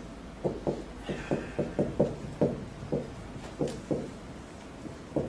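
A quick run of about a dozen light knocks and taps at an uneven pace.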